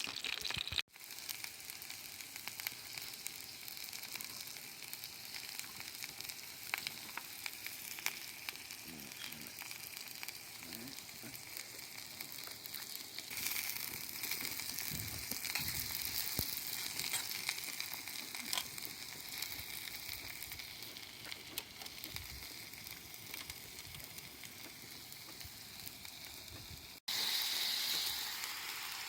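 Pork steak sizzling over a wood campfire: a steady frying hiss with scattered small crackles and pops. It breaks off for an instant about a second in and again near the end, and is louder after that.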